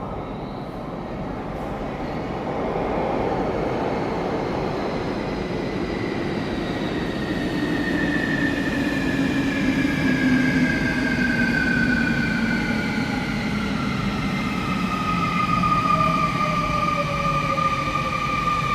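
An eight-car electric commuter train running into the station, growing louder as it comes in, its motors whining in several slowly falling tones as it slows.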